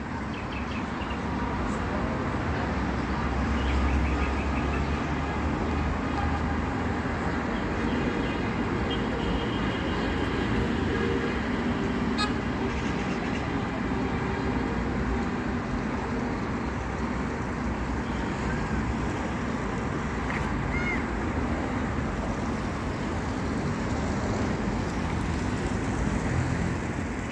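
Outdoor street traffic noise: a steady hum of passing vehicles, with a heavier vehicle rumbling past about four seconds in.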